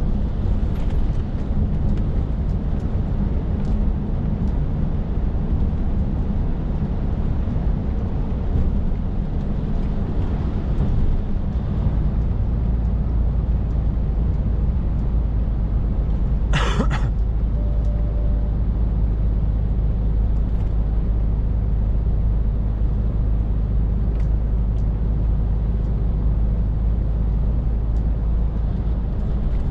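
Scania R450 truck's 13-litre six-cylinder diesel engine and road noise droning steadily, heard from inside the cab; the low drone settles into a deeper, steadier note about twelve seconds in. A short, sharp hiss cuts in once, a little past halfway.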